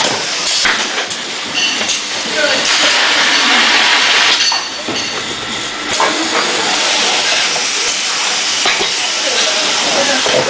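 Automatic carton-packing machine running, with hissing bursts of air and scattered mechanical clacks; a strong hiss runs for about two seconds early in the stretch.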